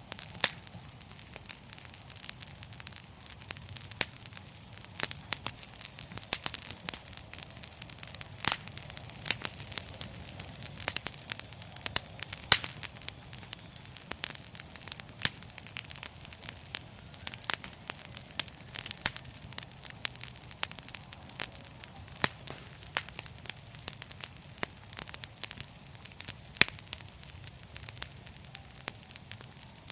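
Wood fire crackling and popping: many sharp snaps at irregular intervals over a low, steady rumble of the flames.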